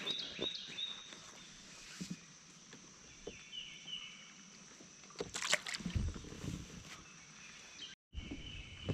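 Outdoor ambience around a fishing kayak on a lake. A bird chirps in short repeated notes over a steady high whine. There are a few light knocks, then a louder splash or handling noise about five and a half seconds in, followed by low rumble.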